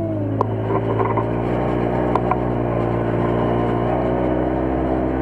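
Off-road buggy's engine running steadily, heard from on board, its pitch rising a little in the first seconds and then holding, with a few short knocks.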